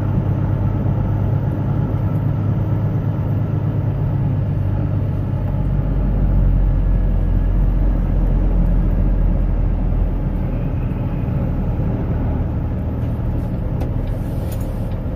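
Truck engine and road noise heard inside the cab, a steady low rumble as it drives slowly over hard-packed snow. It grows a little louder for a few seconds in the middle.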